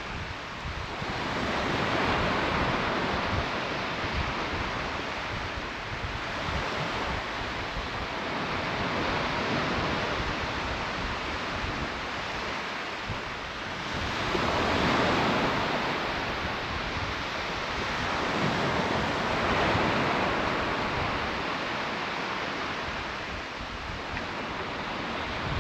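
Sea waves breaking on the shore, swelling and falling away every four to five seconds, with wind buffeting the microphone.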